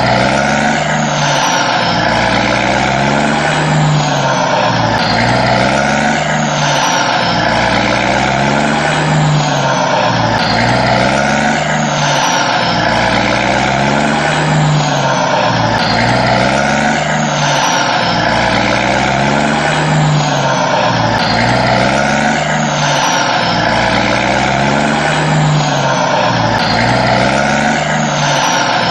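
A steady engine drone that swells and falls in the same way about every two and a half seconds, repeating evenly like a looped engine sound.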